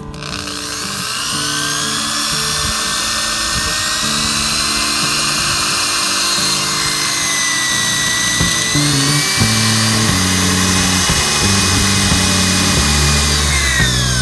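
High-speed power tool worked on the car's sheet-metal body, its whine rising and falling as the load changes and dropping away near the end, over background music.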